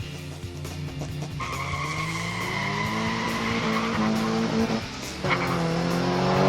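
Race car engine sound effect laid over the race: an engine revving with steadily rising pitch from about a second and a half in, breaking off near five seconds, then a second, louder rising rev with a brief squeal near the end. Background music runs underneath.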